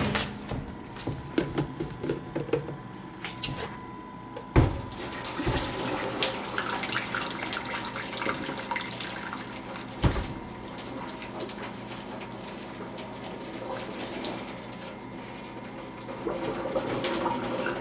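Water running steadily into a sink, starting about four and a half seconds in with a knock, and another knock about ten seconds in.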